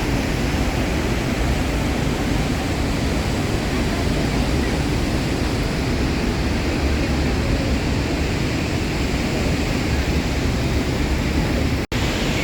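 Steady, loud rush of Niagara Falls' falling water, close to the cascade behind the falls. The sound cuts out for an instant near the end.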